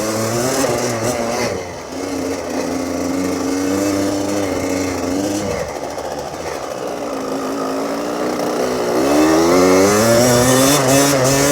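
Small dirt bike engine running under way, its pitch rising as it accelerates, holding steady, dropping off about five and a half seconds in, then climbing again from about nine seconds as the throttle opens.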